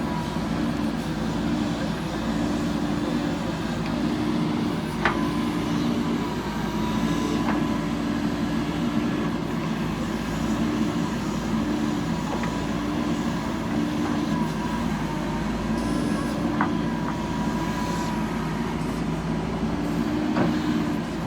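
JCB 3DX backhoe loader's diesel engine running steadily while working, its note swelling and easing every second or two. A faint high whine comes and goes over it, and there are three sharp knocks.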